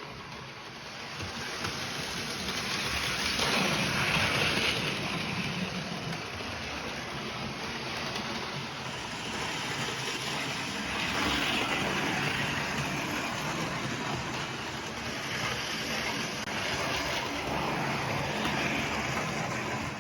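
Model train running along its track: a steady rumble of wheels and motor that swells and fades three times as it passes close.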